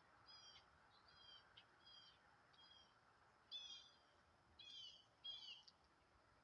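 A bird chirping repeatedly, about seven short, high, downward-sliding chirps, the last three a little louder.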